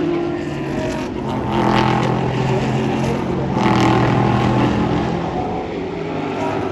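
Race car engines at speed on the circuit, with two cars swelling loudest as they pass, about two and four seconds in.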